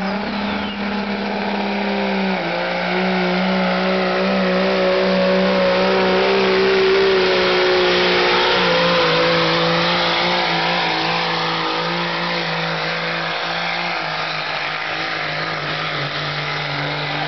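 Diesel pickup truck engine running hard at high, nearly steady revs under heavy load while pulling a weight sled, with a small jump in pitch about two seconds in; it grows louder to a peak midway, then eases off.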